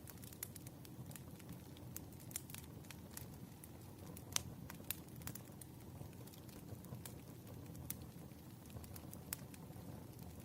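Burning firewood crackling: irregular sharp pops and snaps over a low steady rumble, with one louder pop about four seconds in.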